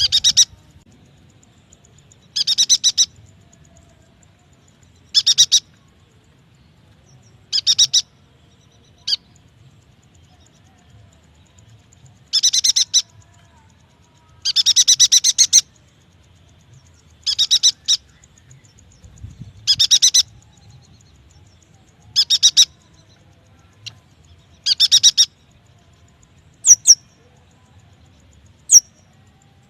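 Yuhina calling: short, rapid chattering trills, one every two to three seconds, then a few single sharp upward-flicking notes near the end.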